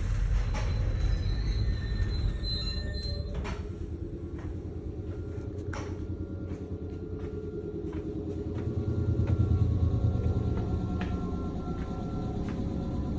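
Nankai 2200-series railcar running, heard from inside the car: a steady low rumble of wheels on rail with a few sharp knocks. Faint thin squealing tones of wheels on the curves come in about halfway through, and the rumble swells near the end.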